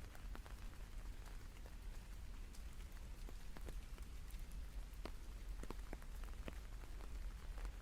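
Rain falling, with scattered drops ticking irregularly over a steady faint hiss and a low rumble underneath.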